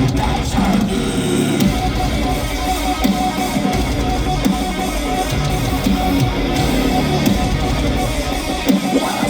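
Live heavy metal played through a concert PA: distorted electric guitars with bass and drums, with no vocals.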